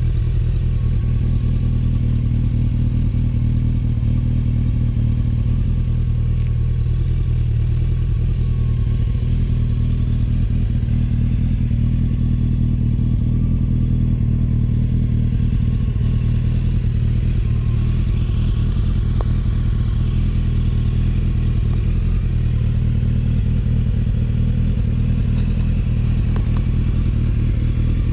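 Honda CBR1100XX Super Blackbird's inline-four engine idling steadily at an even pitch through a new exhaust.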